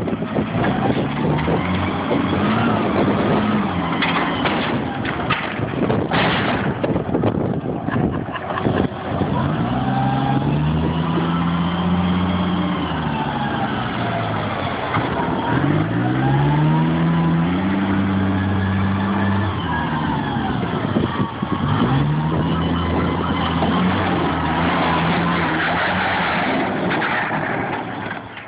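Forklift engine revving up and down repeatedly under load, with a burst of crashing and cracking about four to six seconds in as the boat hull is dropped and broken apart.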